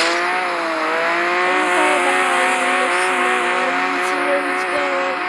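Video-game car engines running steadily in traffic, several engine pitches holding level with slight wavers over a steady hiss of road noise.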